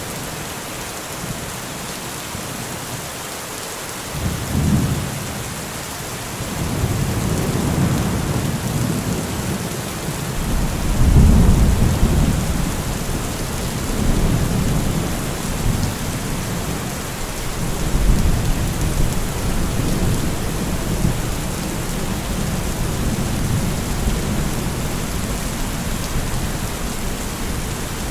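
Heavy rain falling steadily with rolling thunder: a first rumble about four seconds in, the loudest peal around eleven seconds, and further rumbles rolling on after it.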